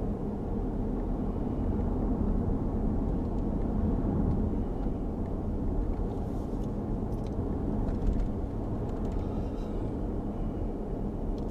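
Steady low rumble of tyre and engine noise heard from inside a moving car's cabin.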